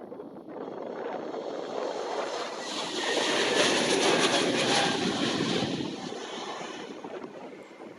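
Airbus A320neo's geared turbofan engines at takeoff power, a broad jet roar that swells to its loudest about four seconds in, then fades as the airliner passes and moves away.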